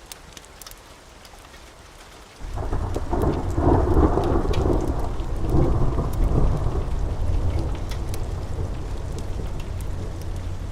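Steady rain with faint sharp crackles, then about two and a half seconds in a sudden clap of thunder that rolls on as a long, loud rumble, strongest in its first few seconds and slowly easing.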